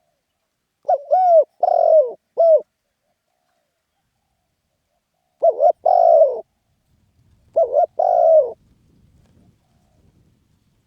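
Spotted dove cooing: three phrases of low, arching coos, the first of four notes and the next two of three notes each, with short silences between them.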